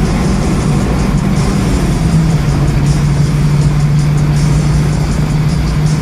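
Toyota Corolla with a 4E-FTE turbocharged engine running hard at high speed, with engine drone and road and wind noise. The drone steps down a little in pitch about two seconds in. Music plays alongside.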